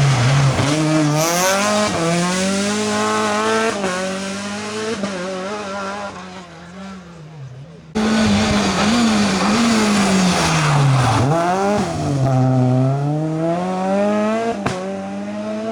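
Rally cars at full throttle on a special stage, engines revving up and down through gear changes as one car passes and fades. After a sudden cut a second car arrives; its revs drop sharply and then climb again as it powers away. There is a sharp crack near the end.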